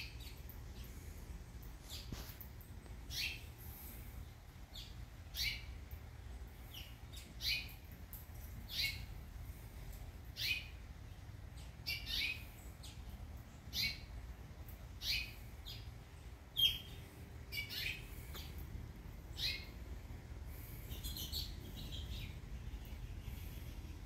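A songbird repeating a single short, sharp call note that drops in pitch, about once every second or two, a dozen times over.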